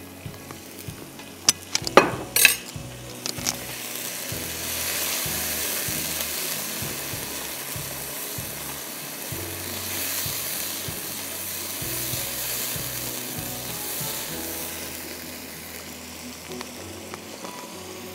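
Onion, curry paste and spice masala sizzling in a hot wok on a gas burner as a spatula stirs it, just after a little water is poured in. A few sharp knocks come about two seconds in, and the sizzling swells a couple of seconds later and eases off near the end.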